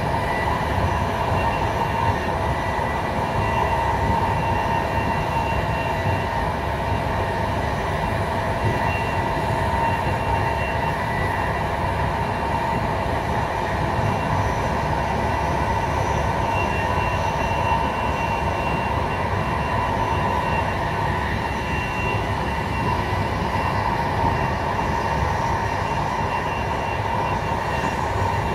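Intercity train running at speed on plain track: a steady rumble of wheels on rail with a constant whine above it and no rail-joint clicks.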